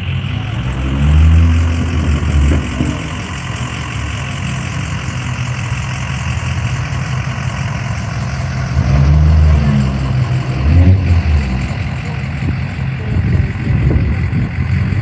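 Car engine idling, revved briefly about a second in and again around nine and eleven seconds.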